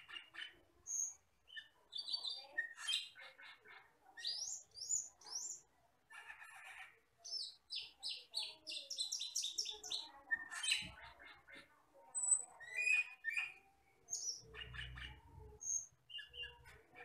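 Asian glossy starling (camperling, cucak keling) singing a busy, varied song of chirps, short whistles and quick trilled runs, with a few low thuds near the end.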